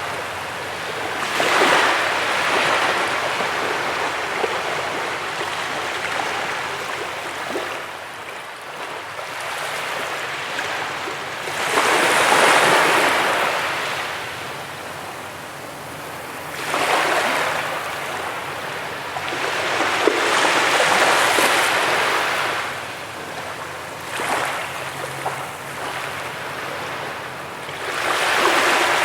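Ocean waves breaking on a beach: a rushing wash of surf that swells and recedes in repeated surges, roughly every five to eight seconds.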